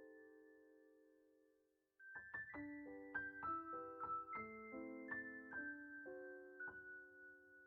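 Quiet solo piano music: a held chord fades away, then after a brief silence a new phrase of notes and chords begins about two seconds in.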